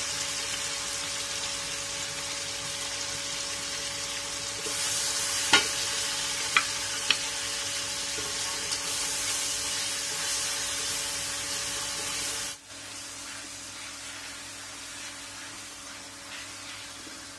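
Green chilli sambal paste sizzling in hot oil in a stainless steel wok while a spatula stirs it, with a few sharp knocks of the spatula against the pan about five to seven seconds in. The sizzle drops suddenly to a quieter level about two-thirds of the way through.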